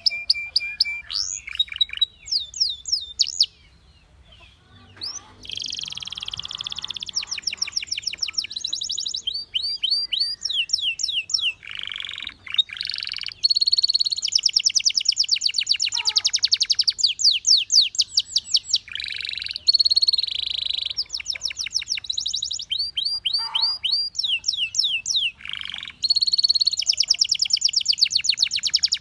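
Canary singing a long song made of rapid trills: fast runs of repeated sweeping notes that change pitch from phrase to phrase, with a short break about four seconds in.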